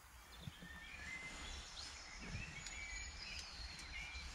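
Small woodland birds chirping and singing, a string of short high calls over a low steady background rumble.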